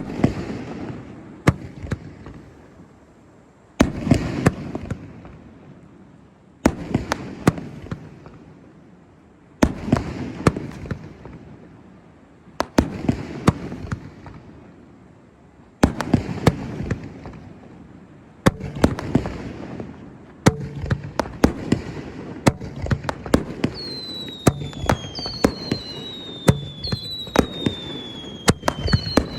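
Fireworks shells bursting with a sharp bang about every three seconds, each followed by crackling. The bursts come faster and overlap toward the end. From about 24 s in, a string of falling whistles joins them.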